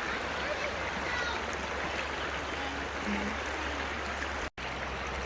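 Shallow creek water running over rocks, a steady even rush, with a brief break about four and a half seconds in.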